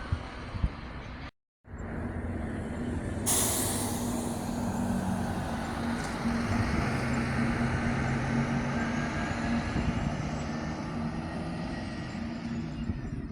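Scania coach's diesel engine running steadily, with a loud burst of air hiss from the air brakes about three seconds in that slowly dies away under the engine. There is a brief dropout in the sound about a second in.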